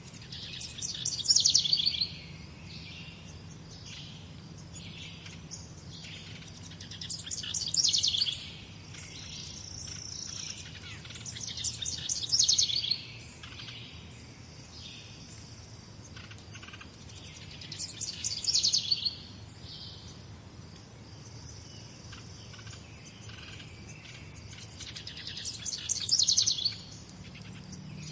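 Songbird singing a loud, fast trilled phrase of about a second and a half, five times at intervals of roughly six seconds, with fainter calls from other birds in between and a faint, regular high pulsing in the background.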